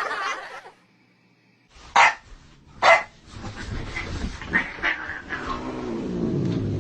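A dog barking twice, loud and sharp, a little under a second apart, followed by fainter scattered sounds.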